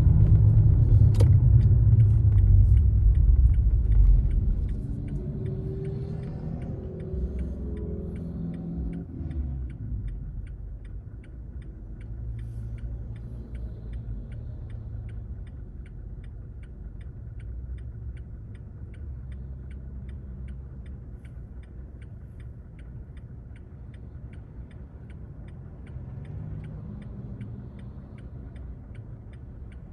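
Inside a moving car: engine and road rumble that is loud for the first few seconds, then dies down as the car slows. A turn-signal indicator clicks steadily throughout.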